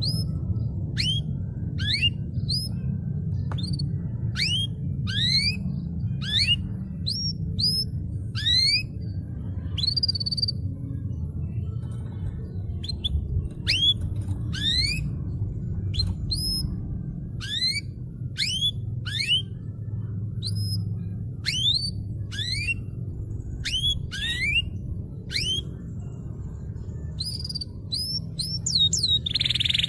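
Domestic canary singing a long series of sharp, rising whistled notes, about two a second, over a steady low background hum. A fast, dense trill breaks in right at the end.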